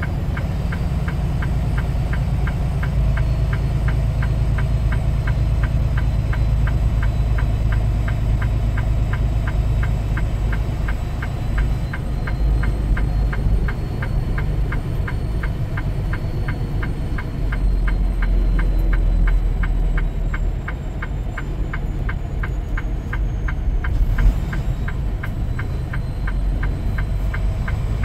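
Semi-truck diesel engine droning steadily, heard from inside the cab, with a fast, even ticking running through it.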